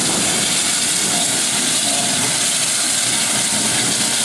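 Steam locomotive, 2-8-0 Consolidation #734, hissing steadily as steam escapes.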